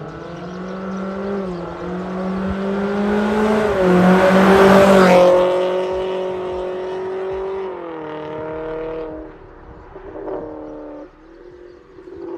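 Toyota Corolla Cross 1.8's exhaust, through an MS-R valved cat-back system, under acceleration as the car drives by. The engine drone holds a fairly even pitch and swells to its loudest about four to five seconds in, then drops away in steps.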